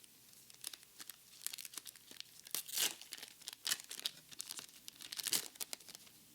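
A foil Pokémon booster pack wrapper crinkling and tearing open in a dense run of sharp crackles, with the loudest bursts about halfway through and again near the end.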